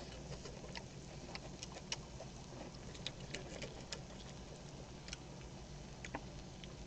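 Someone eating close to the microphone: quiet chewing with a scattering of small sharp clicks, most of them from about one and a half to four seconds in.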